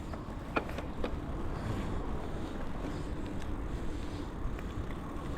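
Steady wind rush and road rumble of an e-bike being ridden, with a couple of light clicks about half a second and one second in.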